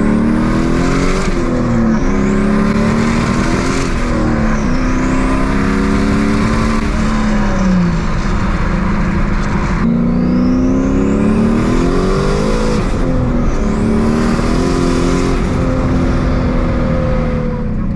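Turbocharged Chevrolet Camaro accelerating hard through the gears of its six-speed manual, the engine pitch climbing and dropping at each shift, with a high turbo whistle rising alongside. A second pull starts about ten seconds in.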